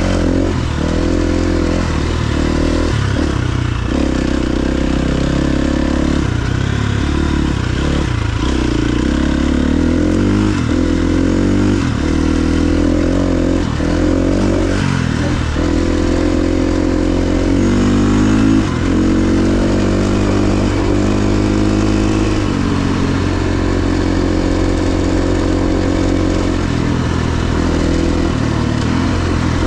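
KTM 350 XC-F dirt bike's single-cylinder four-stroke engine being ridden hard, its pitch rising and falling with throttle and gear changes. It chops off and picks up again many times in the first half, then pulls longer and steadier.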